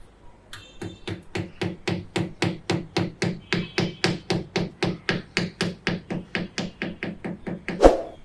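Rapid, even hammering, about four blows a second, each with a short low ring, with one louder blow near the end.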